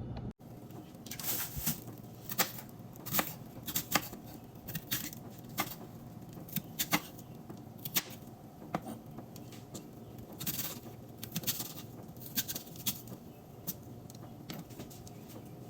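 Kitchen utensils and dishes being handled: irregular sharp clicks, clinks and light knocks, a couple of dozen of them, over a faint steady background.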